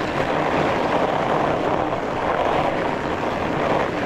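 Steady rushing noise of strong wind buffeting the microphone, mixed with fatbike tyres rolling over snow.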